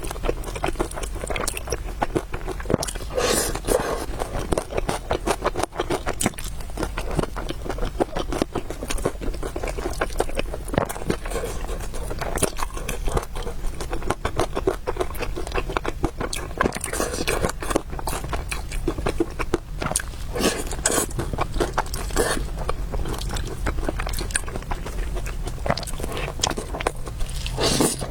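Close-miked eating sounds: continuous chewing and slurping of noodles, with frequent small clicks and short crunches.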